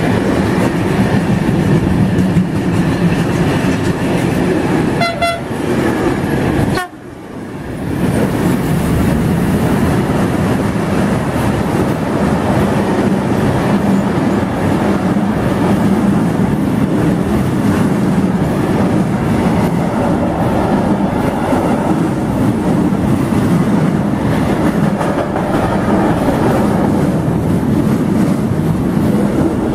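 Freight trains passing close at speed: a steady, loud rumble of wagons running over the rails. A brief pitched tone sounds about five seconds in, and the noise cuts out for an instant about seven seconds in before the rumble resumes.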